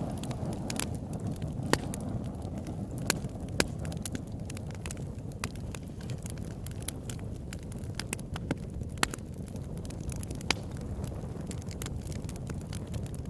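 Campfire burning: a steady low rush of flames with irregular crackles and a few sharp pops from the burning wood.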